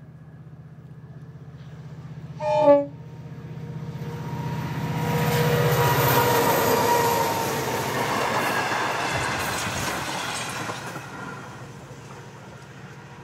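Diesel locomotives hauling a passenger train approach with a steady engine drone and give one short horn blast about two and a half seconds in. The train then passes close by with wheels clattering on the rails, and the sound dies away over the last few seconds.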